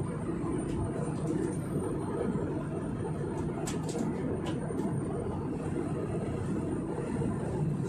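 Steady cabin noise inside an airliner: a low, even rumble of engines and airflow, with a few faint clicks about halfway through.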